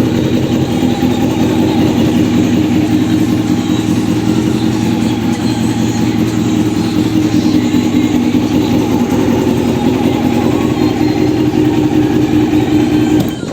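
Honda CBR600F1 Hurricane's inline-four engine running steadily at an even speed, ending abruptly near the end.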